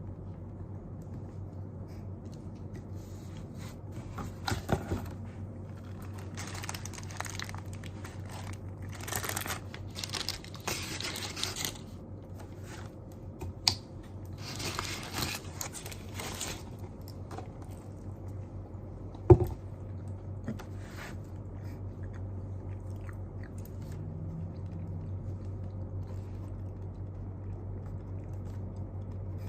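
Desk study noises: several stretches of scratchy rustling and scraping, from handling paper and stationery, and a few sharp knocks of things set down, over a steady low hum. The loudest knock comes about two-thirds of the way through.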